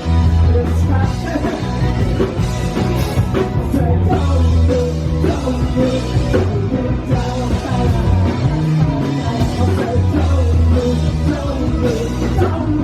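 Rock band playing live, loud and full: electric guitars, bass and drums, with singing in places.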